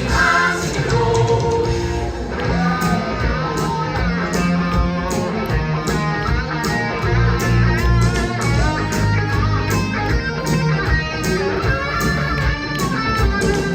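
Rock-style band music led by guitar, with bass underneath and a steady drum beat that comes in about three seconds in; an instrumental passage without singing.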